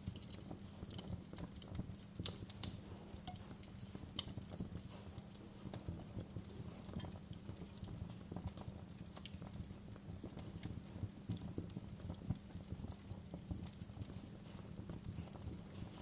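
Wood fire crackling: dense, irregular small crackles over a steady low rumble, with a few sharper pops.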